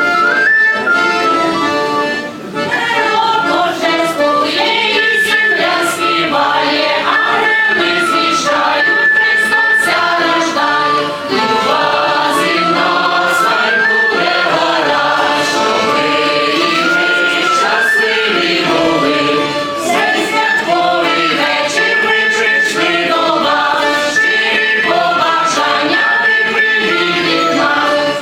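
A choir sings a Ukrainian Christmas carol in several voices, steadily and at full volume.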